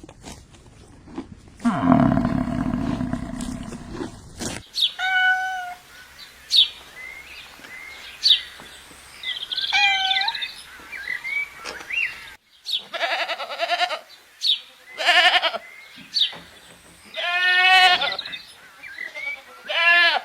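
Goats bleating again and again, short, high, quavering calls, some overlapping near the end. A low, rough animal sound fills the first four seconds or so before the bleating begins.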